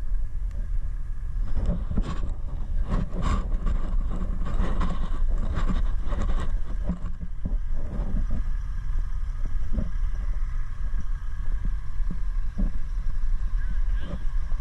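Heavy truck engine running with a steady low rumble, with a series of sharp knocks and clanks over it and a faint steady whine in the second half.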